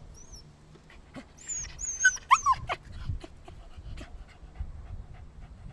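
A dog whimpering: a short run of high-pitched whines and yelps that slide up and down, loudest around two seconds in, with faint scattered clicks.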